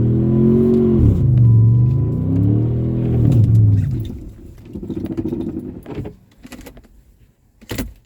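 Jeep Commander engine revving up and down repeatedly while pushing through deep snow, then cutting out about four seconds in as it stalls. A few faint clicks follow, with a sharp knock near the end.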